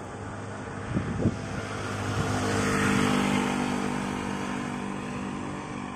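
A motor vehicle passing close by on the road, its engine and tyre noise swelling to a peak about three seconds in and then fading.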